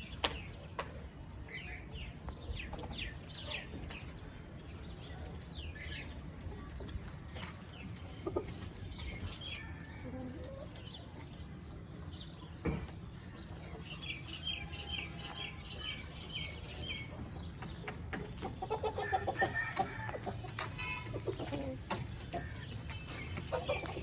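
Aseel chickens clucking, with scattered short high calls, a quick run of short high notes midway, and a louder cluster of lower calls a few seconds before the end, over a steady low hum.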